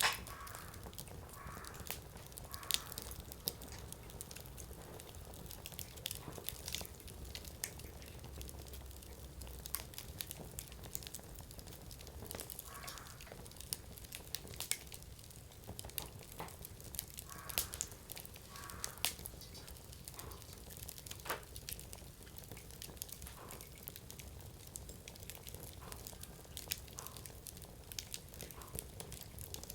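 Firewood burning in a Coleman Fire Disk fire pit, popping and crackling in scattered sharp snaps, sometimes several a second, over a faint low steady rumble.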